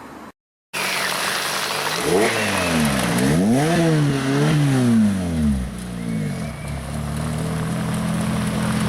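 Lotus Exige sports-car engine revved: it idles, then rises and falls through several quick blips of the throttle, then settles back to a steady idle. The sound cuts out briefly near the start.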